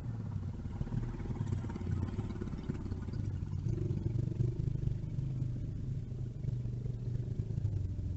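Motor vehicle engine running at a steady low pitch that rises and falls slightly.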